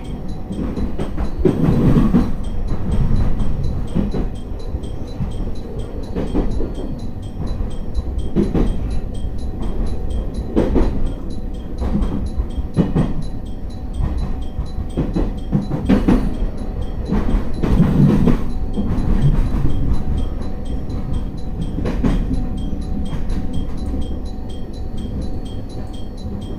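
Electric train running, heard from inside: a steady low rumble with wheels clacking over rail joints every couple of seconds.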